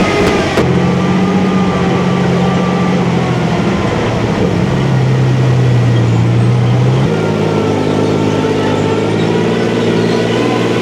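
Cromwell tank's 27-litre Rolls-Royce Meteor V12 petrol engine running under way; its note falls at the start, holds steady, then changes pitch about seven seconds in.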